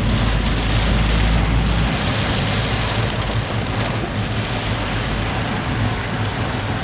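Heavy rain pouring down in a steady, dense hiss. Underneath runs the low, even hum of a vehicle's engine, with a heavier low rumble in the first couple of seconds.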